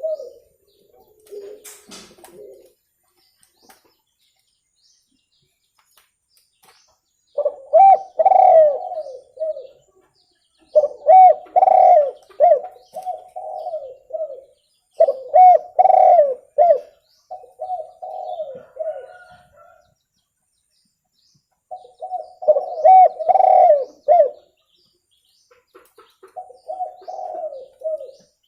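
Spotted dove cooing: a clear song of repeated low, throaty coo phrases. After a quiet start the bouts come about every three to four seconds, each lasting a few seconds.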